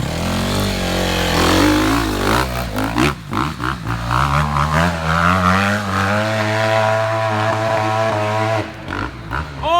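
Honda CRF250R four-stroke single-cylinder dirt bike engine revving hard under load while climbing a steep hill: the revs rise, surge up and down, then hold high and steady before cutting off suddenly near the end.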